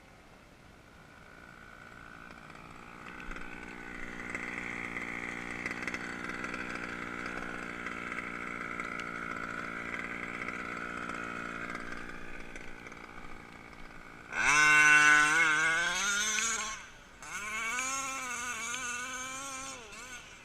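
29cc reed-valve two-stroke petrol engine of an HPI Baja RC car, first fainter, growing louder and running steadily for several seconds, then fading. About 14 seconds in it comes in much louder, revving with rising pitch, drops out briefly, then revs up and down again.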